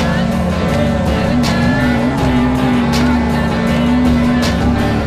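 A drift car's engine held at high revs through a long slide, one steady note that wavers slightly. Music with a steady beat plays over it.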